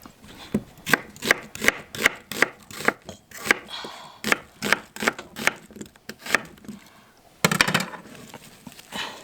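Knife chopping food on a cutting board in steady strokes, about two to three a second, stopping after about six seconds. A short scraping rustle follows near the end.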